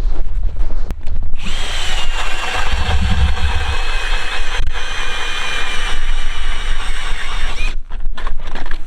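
Battery-powered drill turning an ice auger, boring a hole through river ice. The motor's whine starts about a second and a half in, sags slightly in pitch under load, and stops near the end. Wind rumbles on the microphone throughout.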